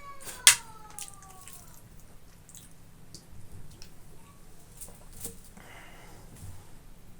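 Close-miked eating sounds of a pork and rice meal: scattered wet mouth clicks and chewing, with one sharp click about half a second in, the loudest sound.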